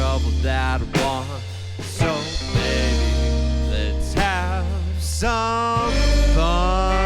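Rock band playing an instrumental passage: a lead line that bends and wavers in pitch over steady bass and drums.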